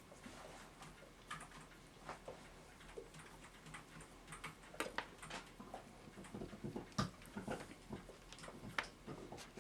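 Irregular small clicks, taps and rubbing of a steel clock mainspring being handled and worked with grease, with a sharper click about seven seconds in and another near nine seconds.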